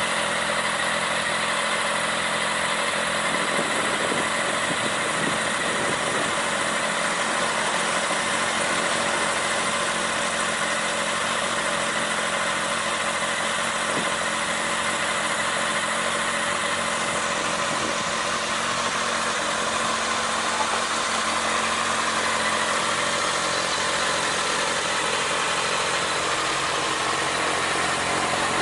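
Honda CB1100's air-cooled inline-four engine idling steadily.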